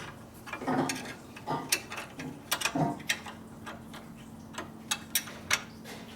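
Irregular metallic clicks and clinks of hand tools working on bracket bolts, a dozen or so sharp ticks at uneven spacing, over a faint steady hum.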